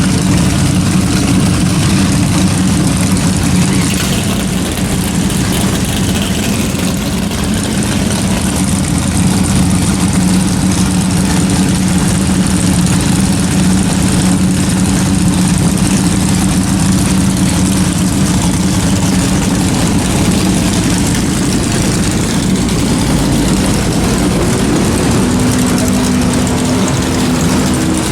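Car engine running steadily, with a low even hum that shifts slightly in pitch near the end.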